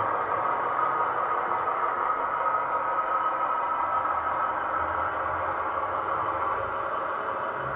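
DCC sound decoder in a Bachmann OO-gauge Class 166 model diesel multiple unit, playing a Class 158 diesel engine sound through the model's small speaker as it runs. A steady mechanical drone with some clatter, easing slightly near the end.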